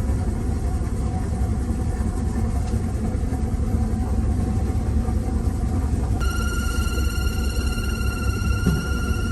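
Steady low rumble of a vehicle engine running. About six seconds in, a steady high-pitched ringing tone with overtones starts and holds.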